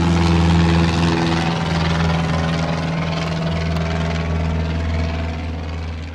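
Pilatus PC-12/45's single Pratt & Whitney PT6A turboprop engine and propeller running with a steady low drone. The higher tones fade after a second or so, and the sound slowly grows fainter toward the end.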